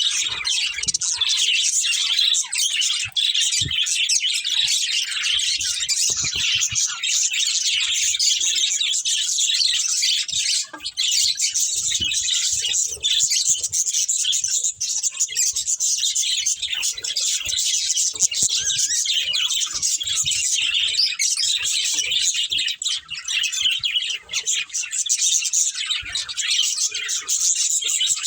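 A pair of budgerigars chirping and chattering without a break, a dense stream of quick high chirps.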